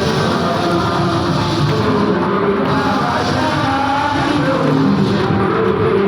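Loud amplified worship band music with a singing voice, playing steadily.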